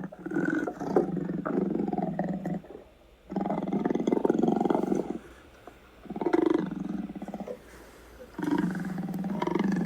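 A big cat giving a series of long, low, rough roars, four in a row, each lasting one and a half to two and a half seconds, with short pauses between.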